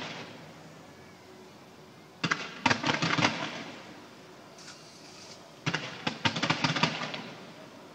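Fireworks going off in two volleys of rapid bangs and cracks, about two seconds in and again about six seconds in, each fading away afterwards.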